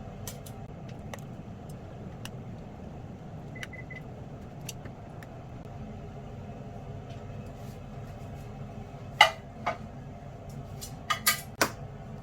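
A steady low hum with scattered light clicks. About nine seconds in there is a sharp clink, then a smaller one, and near the end three sharp clinks in quick succession.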